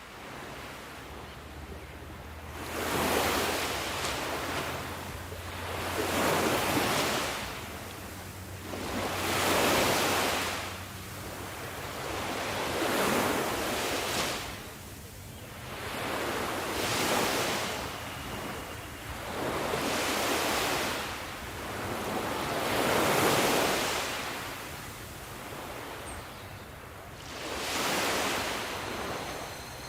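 Sea waves breaking and washing in one after another, each surge swelling and fading about every three to four seconds.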